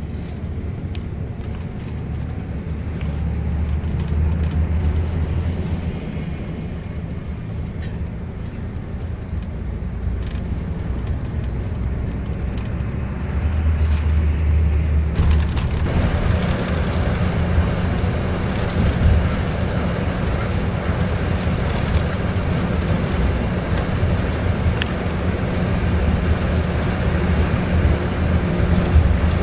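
Scania K410iB double-decker bus on the move, heard from inside the cabin: a steady low engine drone with road noise. About halfway through, the noise gets louder and fuller and stays that way.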